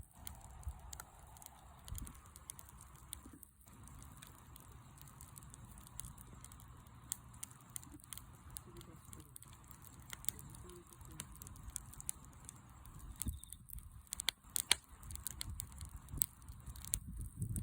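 Wood fire crackling, with scattered sharp pops and snaps over a low rumble.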